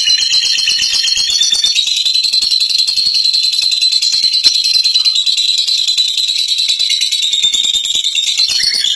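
Lovebird chattering in one long, unbroken run of very rapid, high-pitched notes: the 'ngekek panjang' that fighter lovebirds are kept and judged for.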